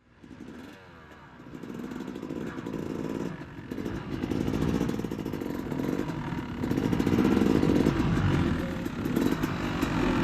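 Dirt bike engines running, growing louder over the first several seconds and then holding strong.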